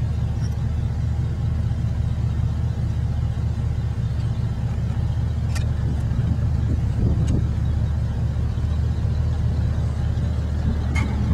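Steady low drone of a car's engine and road noise heard from inside the cabin, with a few faint ticks.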